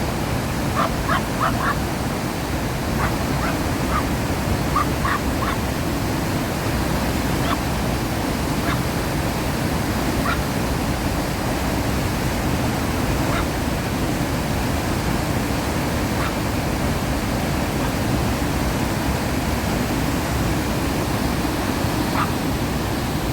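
Steady rush of a waterfall, water pouring over rocks into the falls below, with a few brief high blips in the first several seconds.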